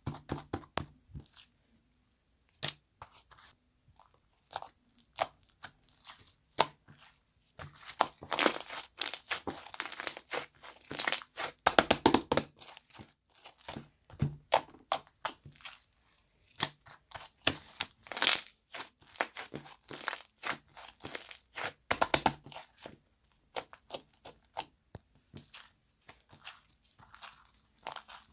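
Slime being squeezed and pressed by hand, making irregular sticky crackling and popping clicks, louder in clusters every few seconds.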